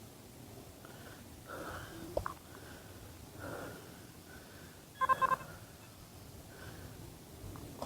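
Metal detector giving a short tone signal, a few quick pulsing beeps about five seconds in. A single sharp click comes a little after two seconds.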